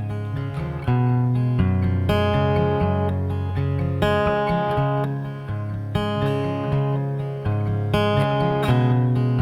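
Acoustic guitar strumming chords for a song's instrumental intro, with a new chord struck every second or two.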